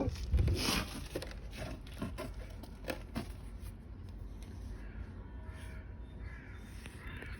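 Handling noises from tools and parts in a workshop: a series of knocks and clicks in the first few seconds, the loudest about half a second in, then quieter rustling and scraping.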